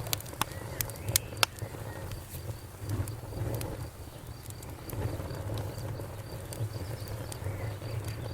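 Wood fire crackling, with sharp pops clustered in the first second and a half over a low steady rumble of flames. A cricket chirps in a fast, even rhythm behind it.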